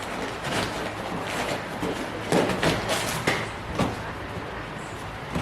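Hand-sanding body filler with sandpaper on a sanding block: repeated short scraping strokes, a few louder ones in the middle.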